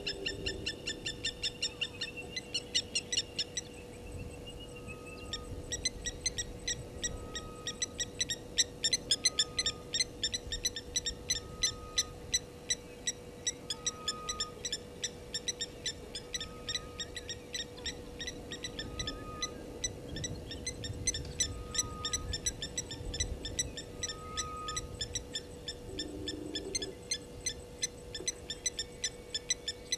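Wild birds calling: a fast chorus of high, dry chirps, with a short whistled note repeated about every second and a half through the middle, over a faint steady hum.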